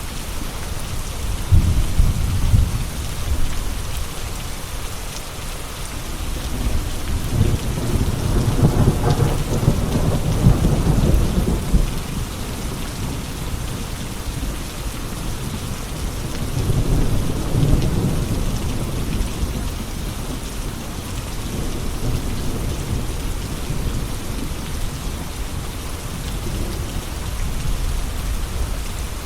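Steady heavy rain with rolling thunder rumbling low underneath: a short rumble near the start, a longer, stronger one about a third of the way in, and another past the middle.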